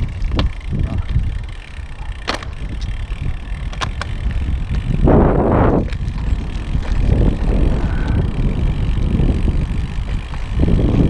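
Wind rumbling over the microphone along with road noise from a road bike being ridden, with a few sharp clicks in the first few seconds and a louder rush of noise about five seconds in.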